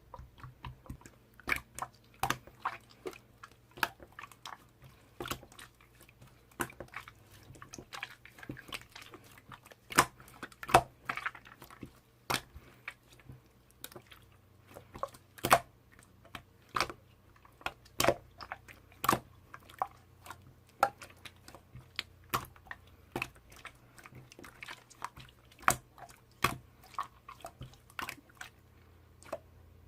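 Slime being pressed and squished by hand, giving irregular sharp clicks and pops, a few a second.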